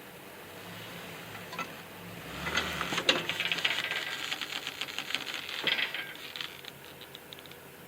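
Small Kubota tractor being pulled back over onto its wheels by a tow strap: a dense run of metallic clicking and rattling for about four seconds, starting a couple of seconds in, over the low hum of an idling truck engine.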